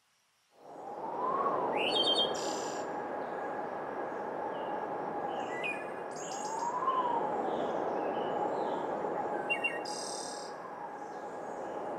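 Birds chirping in short, scattered calls over a steady rushing ambience with a held tone that bends upward briefly twice; the sound fades in during the first second.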